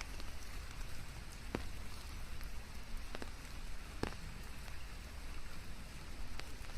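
Steady rain: an even hiss of falling drops, with a handful of louder single drops standing out.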